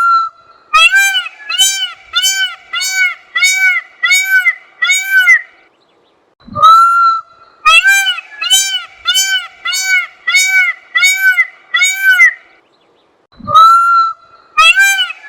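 Indian peafowl (peacock) calling loudly in repeated bouts about seven seconds apart. Each bout is one long rising wail followed by a rapid string of about seven short, arched honking notes, a little more than one a second.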